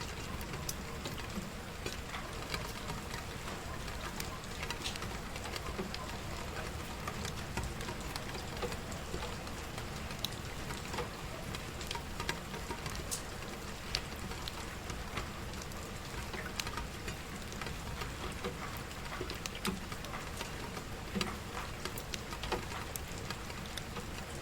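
Steady rainfall with scattered, irregular sharp crackles of burning wood over it.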